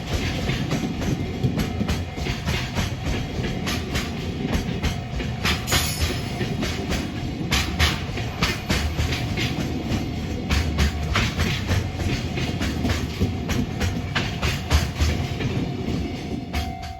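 JR freight train passing close by, its wagons' wheels clacking over the rail joints in a long run of sharp clicks over a steady low rumble.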